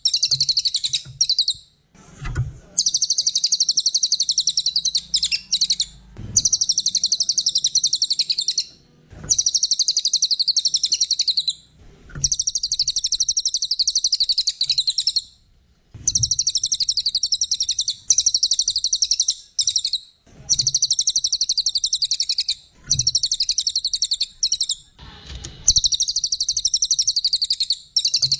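Small songbird singing long, very rapid, high-pitched trills in repeated phrases of two to three seconds each, with short breaks between them. Soft low knocks fall in several of the pauses.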